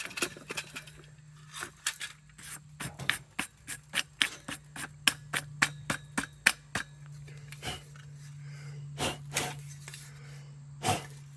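Metal parts of a kerosene heater being handled and knocked together: a run of quick clicks and taps with some scraping, about three or four a second through the middle, then a few separate knocks near the end, over a steady low hum.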